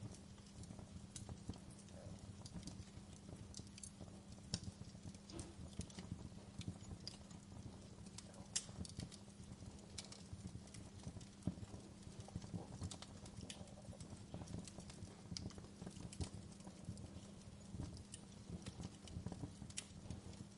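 Wood fire burning in a fireplace: a steady low rumble of flames with frequent irregular crackles and sharp pops from the burning firewood, a few louder pops about 4, 8½ and 20 seconds in.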